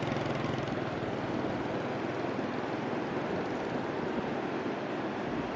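Steady wash of sea surf with wind buffeting the microphone. A low engine hum fades out in the first half-second.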